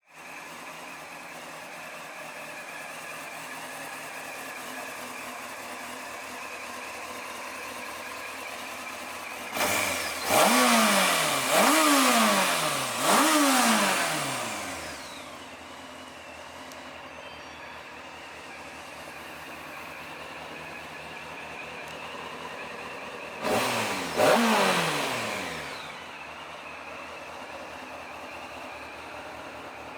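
Honda CBR600F's inline-four engine idling steadily, with three quick throttle blips in a row about a third of the way in and two more later on, each rev rising sharply and falling back to idle.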